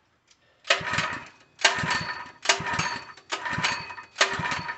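Harbor Freight 3 hp small gas engine being pull-started: five quick pulls of the recoil starter in a row, each a short rattling whir of the engine turning over, and it does not catch. The owner takes the no-start for a fuel delivery problem.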